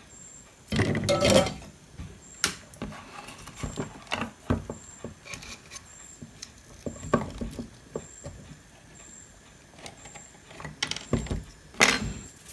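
Hand tools and circuit-board parts being handled on a workbench while an optocoupler is taken out of an old power supply board: irregular clicks, taps and scrapes, with a louder clatter about a second in and a sharp knock near the end.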